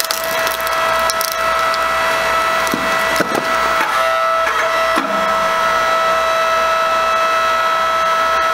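Hydraulic log splitter's motor humming steadily while a log cracks and splinters under the ram. The cracking is densest in the first second or so, with a few more snaps around three and five seconds in.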